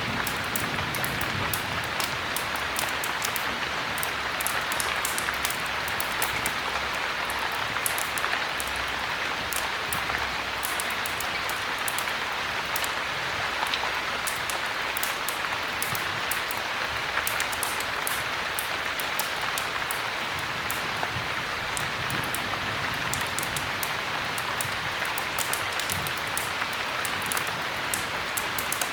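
Steady heavy rain, with many small sharp ticks scattered through it.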